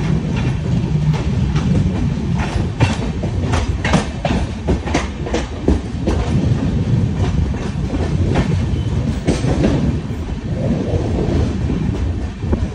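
Moving passenger train heard from an open coach doorway: a steady low rumble of the coach's wheels on the track, with a run of sharp clickety-clack as the wheels cross rail joints, busiest between about two and six seconds in and again around nine seconds.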